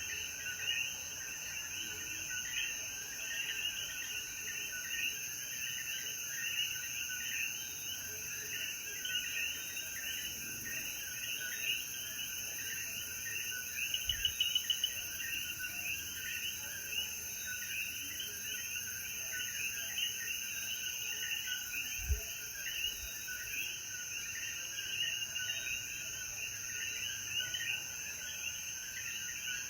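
A chorus of coquí frogs calling after rain: many overlapping short, rising two-note chirps repeating without pause. A steady high insect drone runs beneath them.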